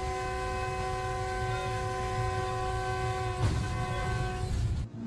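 Train horn blowing a long, steady chord of several notes over the low rumble of the running train. Part of the chord drops out about three and a half seconds in, the horn stops near the end, and the sound cuts off abruptly.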